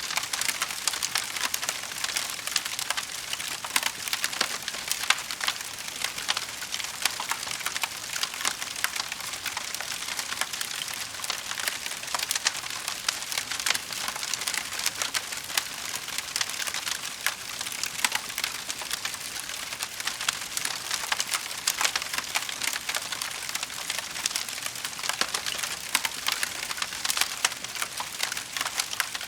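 Wood fire crackling in a fireplace: a dense, continuous run of small sharp snaps and pops over a steady hiss.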